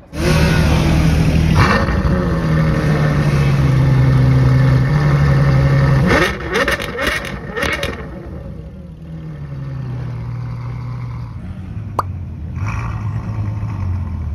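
Ferrari F12 Berlinetta's V12 engine running loudly at steady low revs, then blipped in several quick revs a little after six seconds, before dropping back to a quieter low-speed run.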